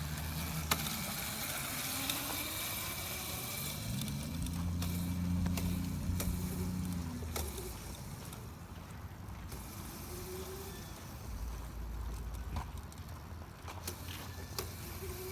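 Razor MX350 electric dirt bike's motor whining as it pulls away: the pitch rises about four seconds in, holds, then drops away around seven seconds. Scattered clicks and rattles throughout.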